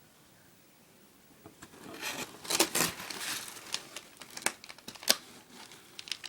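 Packing tape being pulled and torn from a styrofoam shipping box, with crinkling and a few sharp snaps, starting about two seconds in.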